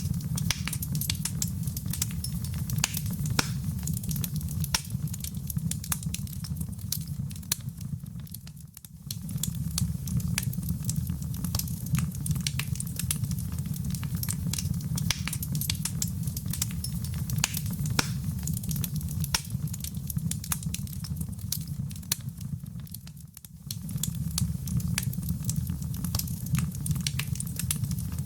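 Wood fire in a fireplace crackling and popping over a steady low rumble of flames. The sound dips briefly twice, about nine seconds in and again about 23 seconds in, where the recording loops.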